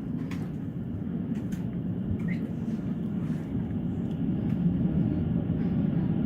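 Low, steady roar of an approaching tornado that slowly grows louder, with a few faint clicks scattered through it.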